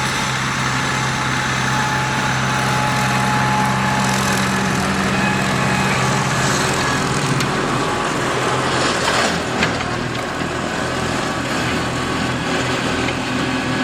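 1994 Ford 7740 SLE tractor's diesel engine running under load while bush hogging, with the rotary mower's hiss over it. The engine note is steady, then shifts about nine seconds in, with one sharp click just after.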